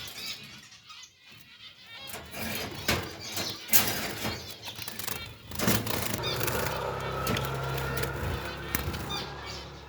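Zebra finches fluttering their wings and giving short chirps in a cage, with a few sharp knocks and rattles of the cage being handled.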